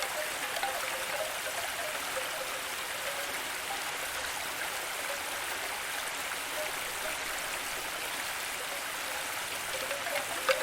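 Steady running water, like a stream, with a few faint droplet-like notes over an even hiss.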